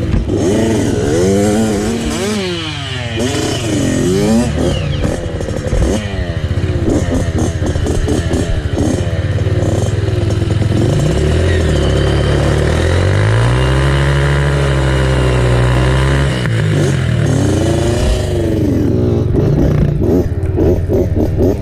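Dirt bike engine revving up and falling back over and over as the bike is ridden, then held at a higher, steadier pitch for a few seconds about two-thirds of the way through.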